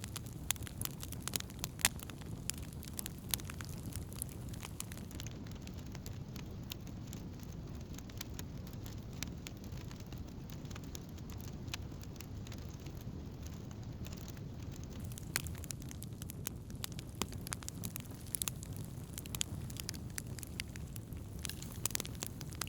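Wood campfire burning, with a steady low rush of flame and scattered sharp crackles and pops from the burning logs, more frequent near the start and in the last third.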